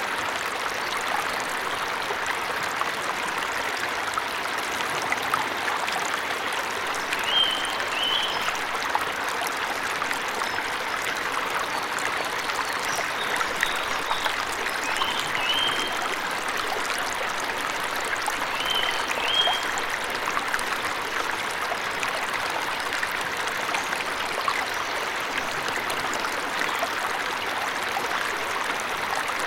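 Steady rush of a forest waterfall, with a bird giving short high chirps, mostly in pairs, several times through the middle.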